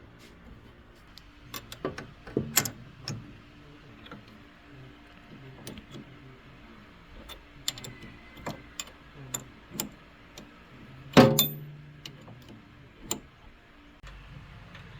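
Irregular metallic clicks and knocks of tools and metal parts being handled during a rice-mill repair, one louder knock with a short ringing a little past the middle. A low steady hum starts near the end.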